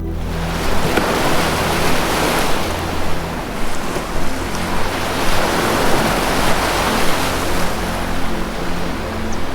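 Ocean surf washing in and out in steady swells, over low sustained music tones.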